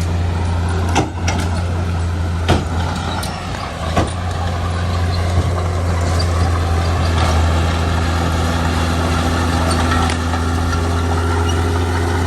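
Heavy diesel engine of construction machinery running steadily, with several sharp metal clanks in the first few seconds.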